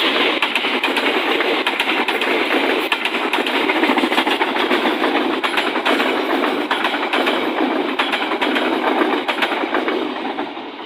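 A train passing close by, its wheels clattering with rapid clicks over the rails along with a steady engine noise, fading away near the end.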